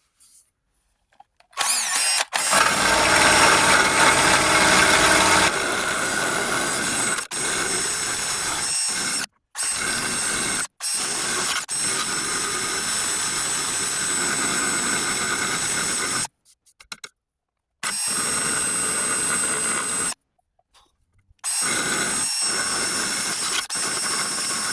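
Electric drill grinding paint and surface rust off steel truck bodywork, run in about six bursts with short stops between. The first burst is the loudest.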